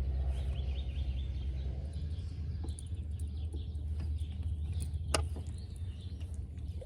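Lakeside outdoor ambience: birds chirping, with a quick run of short chirps in the first second, over a steady low rumble, and one sharp click about five seconds in.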